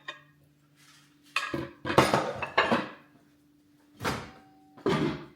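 Dishes and cutlery clattering as a plate of food is handled: a light click, then a run of clattering knocks in the middle and two more near the end, over a faint steady hum.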